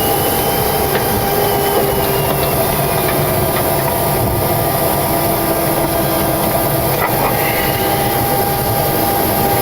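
Steady cockpit noise of a Boeing 727-200 taxiing with its three Pratt & Whitney JT8D engines running: an even hiss over a low rumble, with a few steady whining tones.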